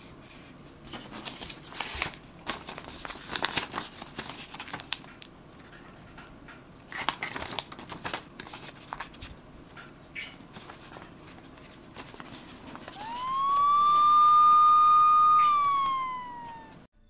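Origami paper being folded and creased: irregular crinkling and rustling. About thirteen seconds in, a single siren wail rises, holds steady for a couple of seconds and then falls away; it is louder than the folding.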